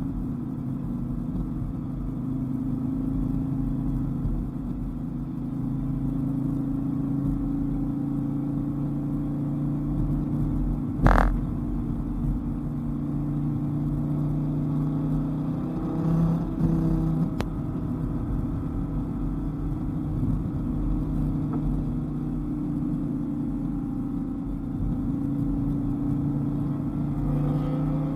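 Dodge Viper GTS's V10 engine running steadily at road speed, the engine note rising briefly a couple of times past the middle. A single sharp knock about eleven seconds in.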